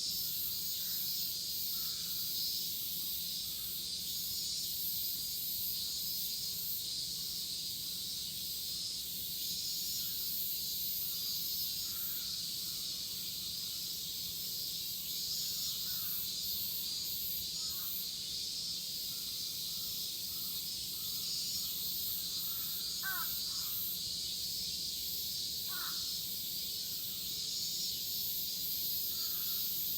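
Chorus of cicadas shrilling steadily. Crows caw a few times over it, most clearly twice about two-thirds of the way through.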